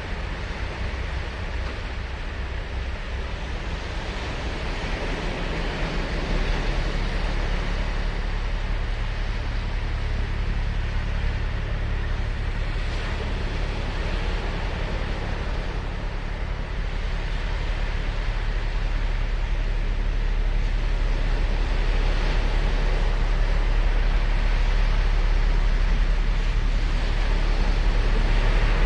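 Ocean surf breaking and washing on a sandy beach: a steady rushing wash over a deep, continuous rumble, with waves swelling a little louder every few seconds.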